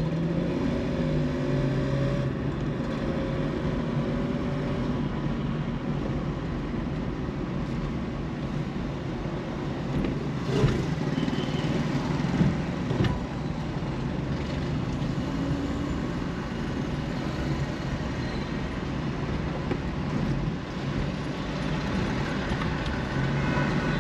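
Steady city road traffic heard from a car driving along a busy road: a constant rumble of engines and tyres, with pitched engine hums near the start and end and two brief sharp sounds about ten and thirteen seconds in.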